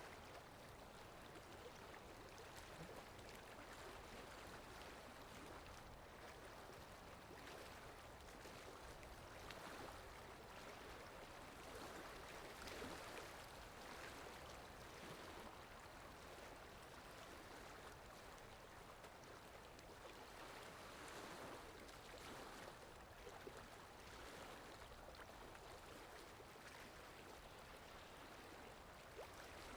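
Faint running-water sound effect: a steady, even rush of water that swells and eases slightly every few seconds.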